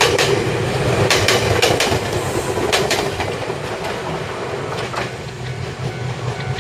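Ryutetsu Nagareyama Line electric train running past close by over a level crossing: a steady rolling rumble broken by irregular sharp wheel clacks over the rail joints, easing off slightly toward the end.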